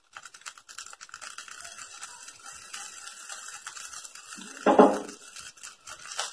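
Sweet corn kernels crackling in hot ghee in an aluminium kadai as a wooden spatula stirs them, with a brief louder sound about five seconds in.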